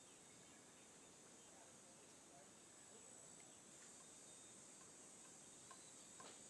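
Faint, steady high-pitched chirring of insects, with a few soft ticks near the end.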